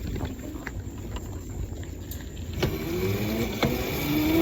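Small motorbike's motor running during a ride, its pitch rising and falling with speed, over a steady road rumble with a few sharp knocks from bumps.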